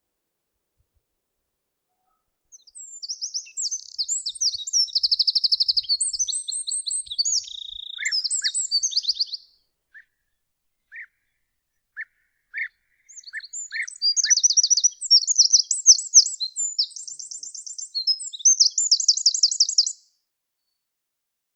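A songbird singing two long, varied phrases of high, fast trills, one starting about 2.5 seconds in and one about 13 seconds in, each lasting around seven seconds. Between them come a few short, lower single notes.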